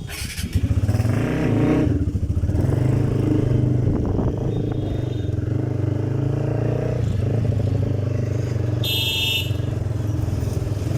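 Motorcycle engine starting up, then running steadily at a low, even pitch. A short high-pitched beep sounds near the end.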